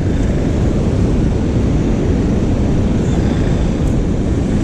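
Wind buffeting the microphone: a loud, steady, low rumble with no distinct events.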